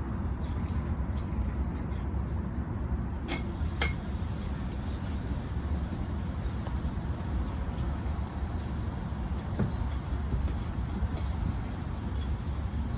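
Steady low outdoor rumble, such as city traffic and wind, with scattered light clicks and taps. Two sharper ticks stand out about three and four seconds in.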